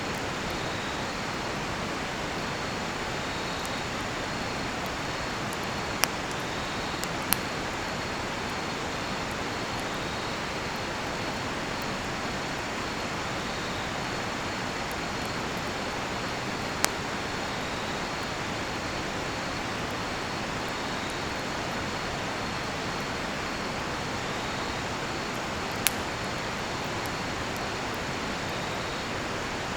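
Steady rush of a nearby river, with crickets chirping in a high, repeated trill, and a cedar-wood campfire giving four sharp pops.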